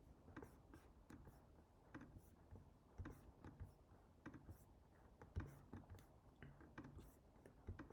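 Near silence with faint, irregular clicks of a computer keyboard and mouse being worked.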